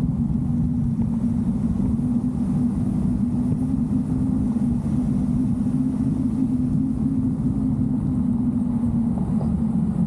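Steady low engine drone of a moving vehicle, with an even hum held throughout and no change in pitch.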